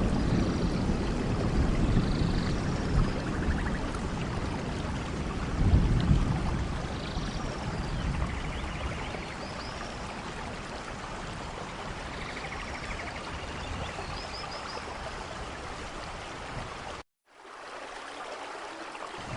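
Steady rain with thunder rumbling low, swelling at the start and again about six seconds in, then dying away. The sound cuts out completely for a moment near the end, then the rain resumes.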